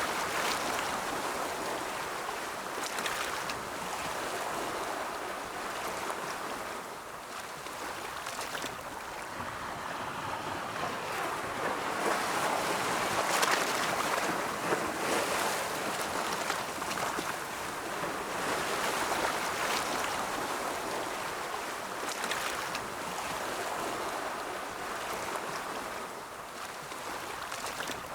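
Ocean surf: waves breaking and washing in a continuous wash of noise that swells and eases over several seconds, building to its loudest about halfway through.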